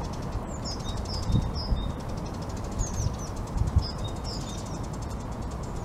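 A small songbird chirping in two runs of quick, high notes, the second starting about three seconds in, over steady outdoor background noise with a few faint low bumps.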